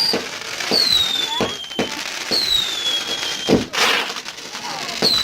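Fireworks going off: whistling shots, each a falling whistle about a second long, three times, among sharp pops and cracks, with a louder bang and crackle about three and a half seconds in.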